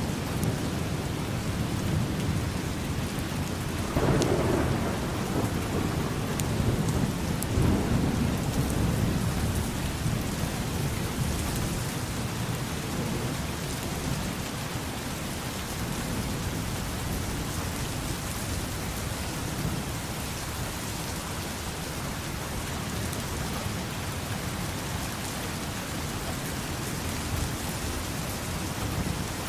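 Steady rain falling, with a low rumble of thunder rising about four seconds in and dying away over several seconds.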